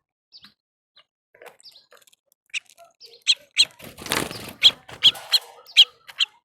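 Small birds chirping, sparse and faint at first, then a quick run of loud, sharp chirps from about two and a half seconds in. A brief rustling noise comes about four seconds in.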